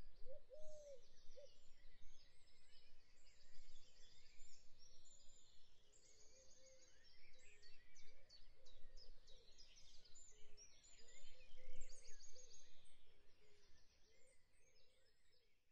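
Birds chirping and trilling, many quick overlapping calls with a few lower whistled notes, fading out near the end.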